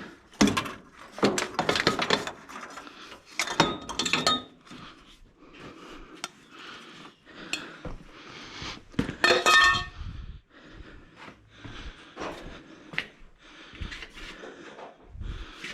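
Metal tools and parts clinking and clanking during hand work on turbocharger plumbing, a string of irregular knocks with two louder ringing metal clanks, about 4 seconds in and about 9 seconds in.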